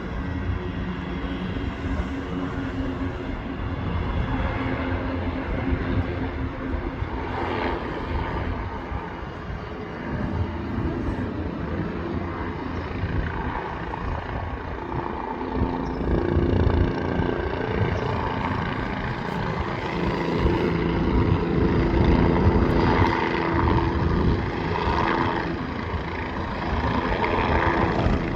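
Aircraft engines running with a steady, multi-tone drone over a low rumble, growing louder about halfway through.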